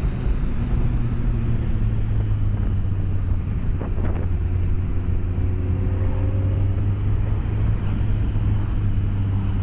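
BMW K1200S motorcycle's inline-four engine running steadily on the move, heard from a microphone inside the rider's helmet over road and wind noise; the revs climb gently for a few seconds midway.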